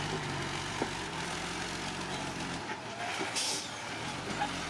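Bulldozer's diesel engine running steadily. A little past halfway its low hum drops away, and a short hiss follows soon after.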